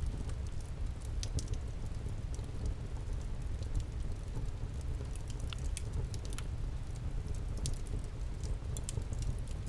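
Wood campfire burning, with irregular sharp crackles and pops over a steady low rumble of flame.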